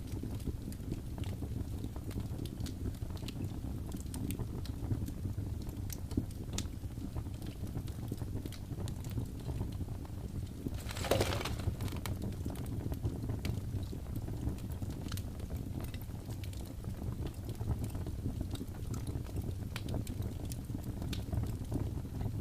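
Wood fire burning in a fireplace: a steady low rumble of flames with scattered crackles and pops, and a short, louder hiss about halfway through.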